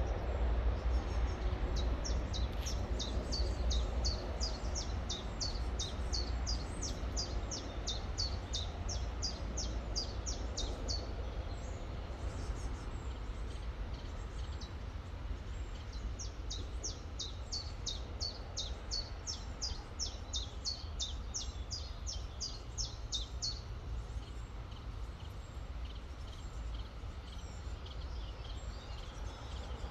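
A songbird singing two long runs of quick, high, downward-slurred notes, about three a second, over the steady low rush of a river.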